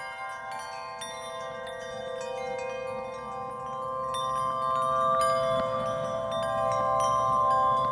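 Background music: struck chime-like notes ringing over a sustained chord, slowly growing louder.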